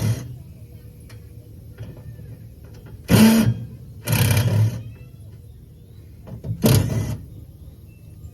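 A handheld power driver run in short bursts of about half a second, three times after a first one ends, as if backing out screws from sheet-metal panels.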